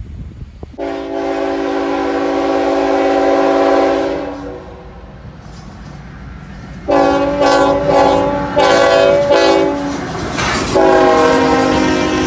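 Diesel locomotive air horn on an approaching CSX freight train sounding a chord of several notes: one long blast, then a string of shorter blasts, then another long blast, over the low rumble of the train.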